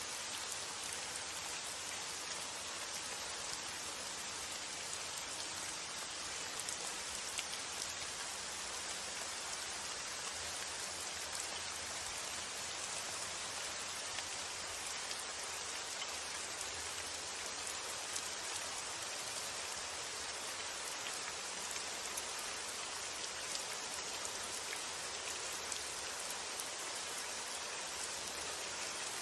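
Steady rain falling, an even hiss of rain with scattered sharper taps of individual drops.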